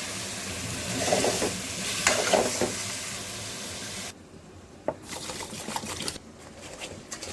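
Food sizzling in a hot pan while it is stirred, with scraping strokes from the spatula. About four seconds in, the sizzle cuts off abruptly, leaving a quieter stretch with a few light knocks.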